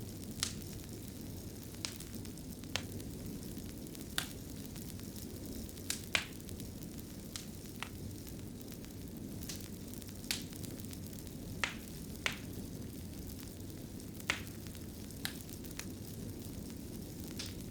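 Fire crackling in a fireplace: a steady low rush of flames with sharp, irregular pops and snaps about once a second.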